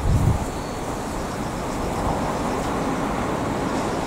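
Steady rumble of an electric commuter train running along the track at a distance, blended with traffic noise. A brief low thump comes right at the start and is the loudest moment.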